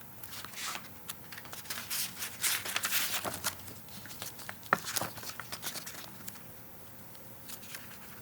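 Paper rustling and crinkling from a picture book being handled and opened, with a run of short scrapes and clicks over the first five seconds or so.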